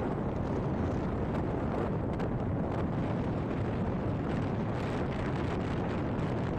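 Steady wind rush buffeting a phone microphone held out of the window of a moving van, over the drone of the road and engine, with a few faint clicks.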